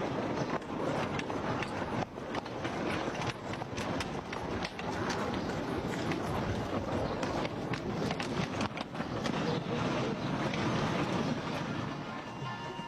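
Horse-drawn rail trolley running along its track: a steady rumble of its wheels on the rails, dense with rapid irregular clicks and knocks.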